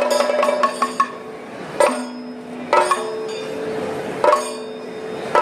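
Traditional temple festival music: drum strokes, quick at first and then spaced about a second apart, over steady held wind-instrument notes.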